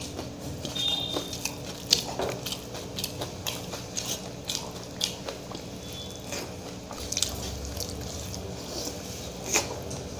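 Close-up eating sounds of a person taking handfuls of rice and fried pakora: moist chewing with many small, irregular mouth clicks.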